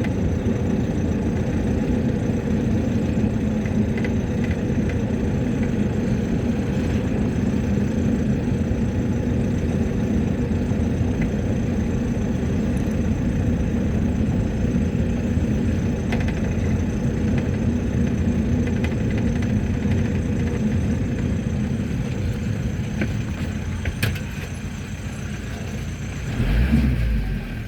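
Mercedes-Benz T1 minibus running, heard from inside the cabin while driving: a steady engine and road hum that eases off near the end, followed by a low thump.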